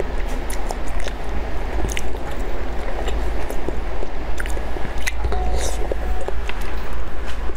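Close-miked chewing and biting of soft jelly candy: sharp, wet mouth clicks and squishes scattered through, over a steady low hum.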